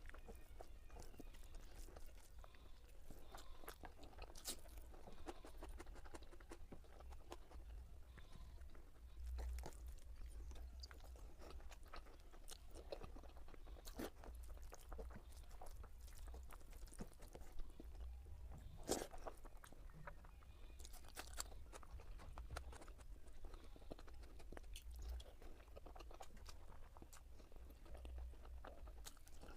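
A person chewing mouthfuls of masala egg curry and rice, with soft scattered mouth clicks and crunches throughout, over a steady low hum.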